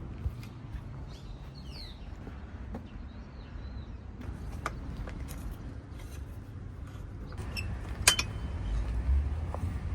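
Scattered light clicks and clinks against a low steady rumble, with a few faint bird chirps about a second in; one sharper click near the end.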